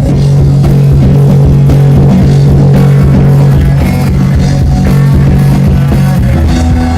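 Live rock band playing loudly without singing: electric guitar over a long-held low bass note, the intro before a sung verse.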